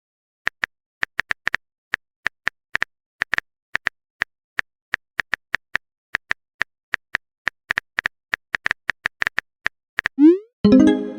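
Phone keyboard typing clicks, short and irregular at about three or four a second, then near the end a fast rising swoosh and a short chime: a text message being typed and sent.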